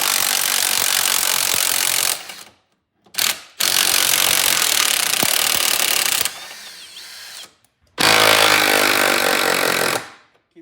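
Impact wrench hammering on 3/4-inch nuts of an outboard motor's mounting bolts, run in three long bursts of a couple of seconds each, stopping suddenly between them.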